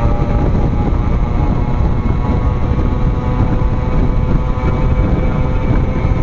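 Suzuki Max 100's modified 100 cc two-stroke engine running flat out at high revs at top speed, a steady engine tone under heavy wind rumble on the microphone.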